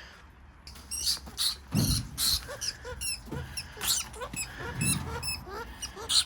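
Wild rats squeaking over and over in quick, short, high-pitched squeaks, with scuffling and a few dull thuds.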